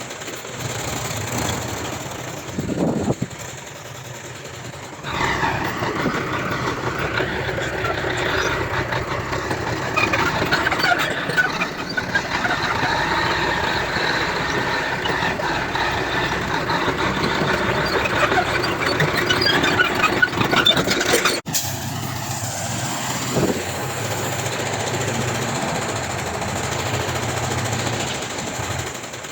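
Heavy earthmoving machinery at work: diesel engines running with a dense clatter of small knocks. The sound changes abruptly about five seconds in and again about two-thirds of the way through.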